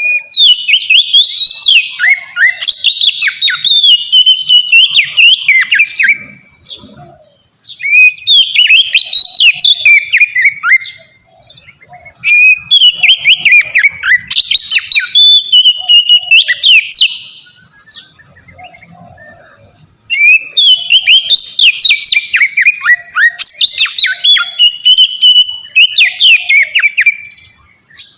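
Oriental magpie-robin (kacer) singing in full, open voice: four long phrases of rapid, varied whistled notes that swoop up and down, separated by short pauses.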